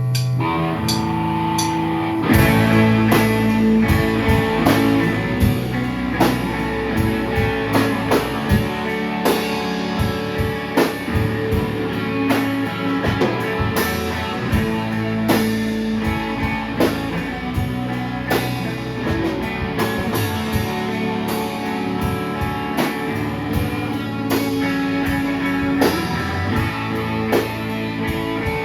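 Live rock band playing an instrumental passage on guitar and drum kit. Held guitar notes open it, and the drums come in about two seconds in with a steady beat.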